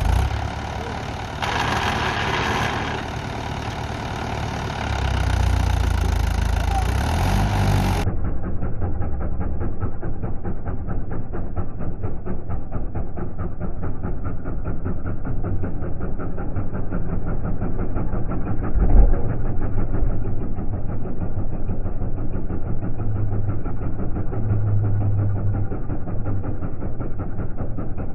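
Farm tractor's diesel engine running with a fast, even beat, working harder for a few seconds before a cut. It then runs steadily on, with one brief loud thump near the middle.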